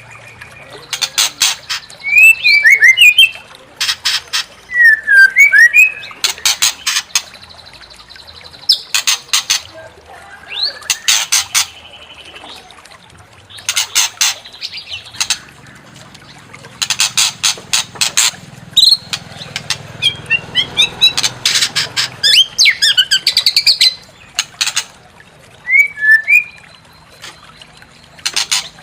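White-rumped shama (murai batu) calling in repeated harsh, rapid rattling bursts. Short whistled rising and falling notes come between the bursts.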